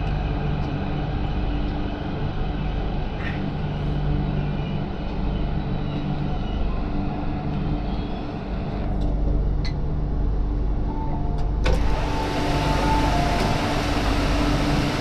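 Inside an MTR Q-train metro car: steady low rumble and electric hum of the train. A sharp click comes about twelve seconds in, after which a louder hiss sets in.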